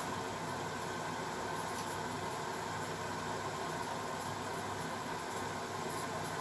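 Beko WML 51211 washing machine running mid-cycle: a steady, even machine hum with no knocks or breaks.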